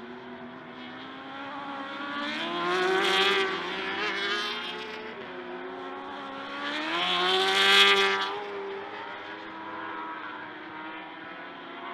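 Sport motorcycle engine revving high, swelling loud twice, about three seconds in and again near eight seconds, its pitch climbing into each swell.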